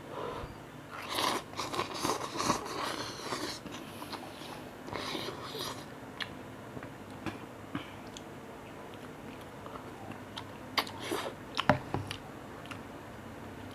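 A person chewing and eating cup noodles close to the microphone, in irregular bursts with pauses between mouthfuls.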